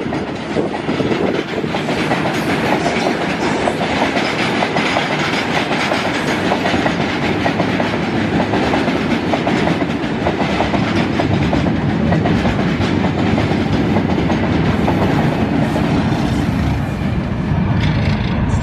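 Loaded freight train of open-top BOXN wagons rolling past at speed: a steady heavy rumble of wagon wheels with rapid clickety-clack over the rail joints.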